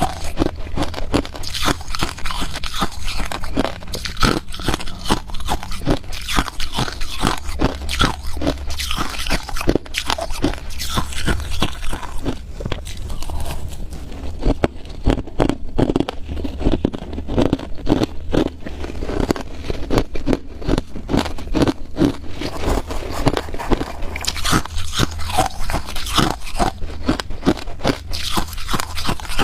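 Ice being bitten and chewed, with a close, continuous run of sharp crunching and crackling.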